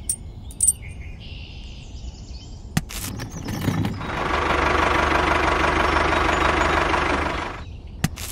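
A few light metal clicks, then an engine that starts up about three and a half seconds in, runs steadily for about four seconds and stops shortly before the end.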